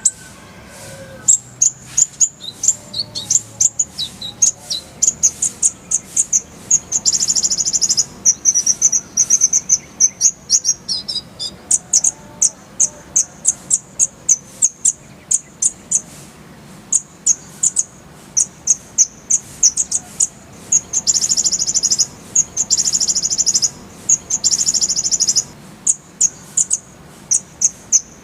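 Kolibri ninja sunbird singing in a masteran recording: a fast run of high, sharp chirps broken by longer rapid, buzzing trills, about seven seconds in and again about twenty-one to twenty-five seconds in.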